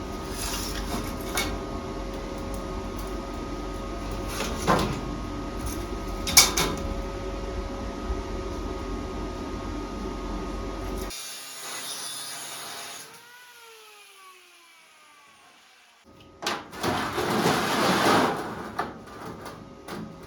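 Angle grinder cutting steel profile tube: a steady running hum with a couple of knocks, then a short hissing cut, and the grinder switched off, its whine falling as the disc spins down. Near the end, steel pieces clatter as they are handled.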